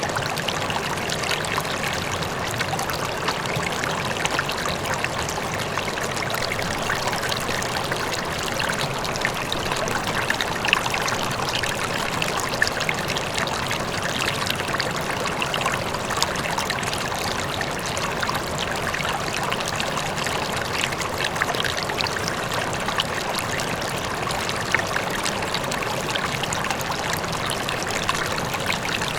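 River water flowing and splashing steadily over rocks, with a faint waterfall in the distance.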